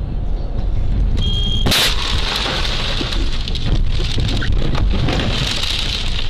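Vehicle road rumble, then a brief high squeal and a loud crash about a second and a half in, followed by a steady hiss with scattered clicks.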